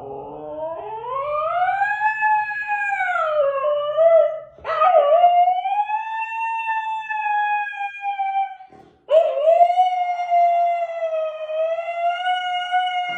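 A dog howling: three long howls, the first rising and then falling, the next two held fairly steady, with short breaths between them about four and nine seconds in.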